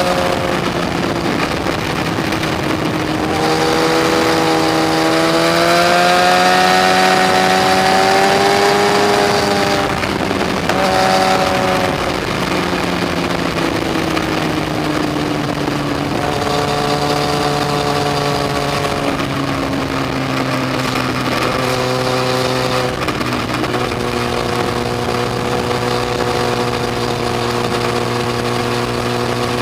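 Yamaha FZ1's inline-four engine pulling under way, its pitch climbing and falling as the throttle opens and closes. There are brief dips about ten and twenty-two seconds in, and it runs steadier near the end.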